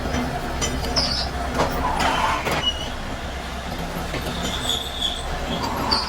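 Workshop machinery running with a steady low hum. Over it come a few sharp metal knocks and short high squeaks of metal on metal, from work on motorcycle kick-start levers.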